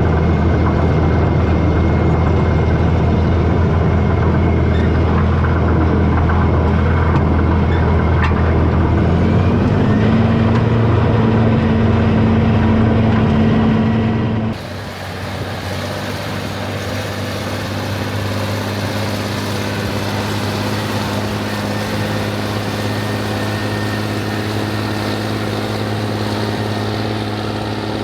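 Rába 250's diesel engine running steadily. Its note rises a little about ten seconds in. About halfway through, the sound abruptly becomes quieter and hissier while the engine keeps running at the same pace.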